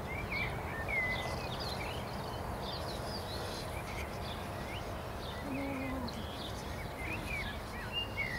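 Small birds chirping and twittering in quick short calls throughout, over a steady low background noise.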